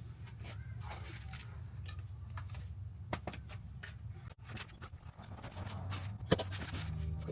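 Scattered light knocks and clicks of hand work on a car's exhaust, with tools and metal parts being handled, over a steady low hum. One sharper knock comes about six seconds in.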